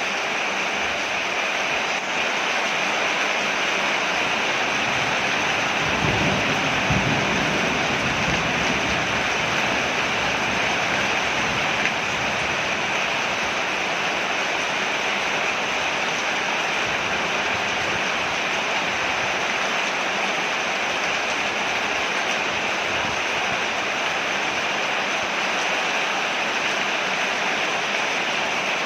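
Steady, dense rain falling on a porch, an even hiss. About six seconds in, a brief low rumble rises under it and fades within a couple of seconds.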